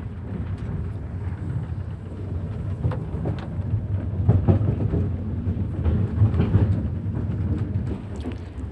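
Soviet-era passenger train coach running, heard from inside a sleeping compartment: a steady low rumble with scattered short knocks and rattles.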